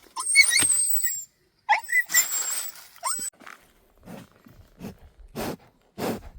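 Two loud, noisy animal calls with squealing high tones, each about a second long, followed by softer strokes repeating about twice a second.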